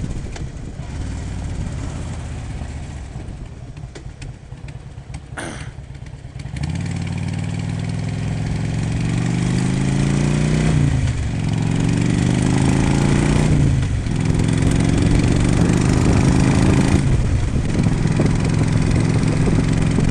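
Motorcycle engine accelerating through the gears. From about six and a half seconds in, the engine note climbs in pitch and drops back at each upshift, three shifts in all, getting louder.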